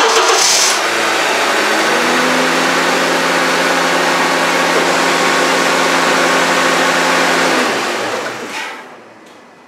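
Honda CR-V 2.4-litre four-cylinder engine starting up and running at a steady idle, now free of the racket that the old AC compressor made, with a freshly replaced compressor and a recharged system. The sound drops sharply in level about eight seconds in.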